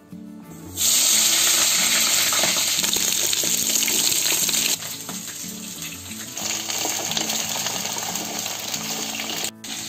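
Brinjal (eggplant) pieces dropped into hot oil in a kadhai: a loud sizzle that starts suddenly about a second in and eases somewhat about halfway, as the pieces are stirred and fry on.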